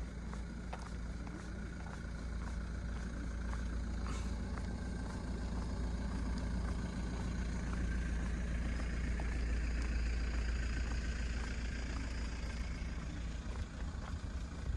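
A car running slowly past on a wet street: its engine and tyre noise build over several seconds and ease off near the end, over steady rain with scattered short drip ticks.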